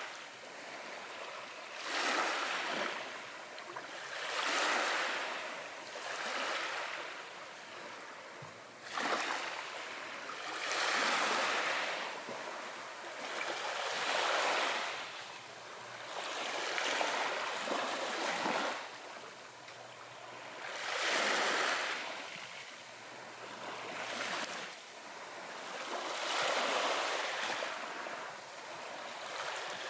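Small waves washing onto a shore in a regular rhythm, each one swelling into a hissing rush and fading, about one every two to three seconds.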